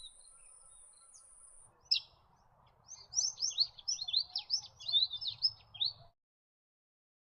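A songbird singing a fast run of sharp, down-slurred high whistled notes, several a second, that cuts off suddenly. Before it, a thin high steady hiss, like an insect buzz, and one sharp single note.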